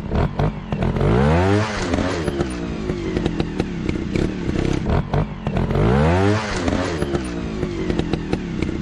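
Motorcycle engine revving up and dropping back twice, about four seconds apart, with a busy clatter of knocks and clicks between the revs.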